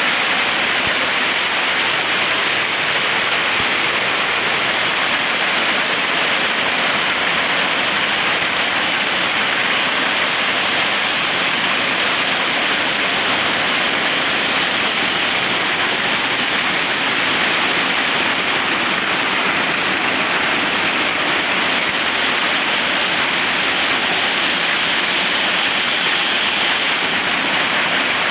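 Hailstorm: hail and heavy rain falling together in a steady, dense hiss that holds at one level throughout.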